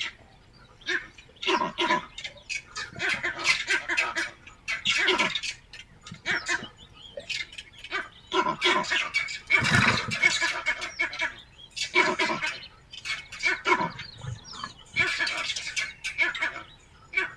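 Birds calling over and over, short calls coming in irregular clusters.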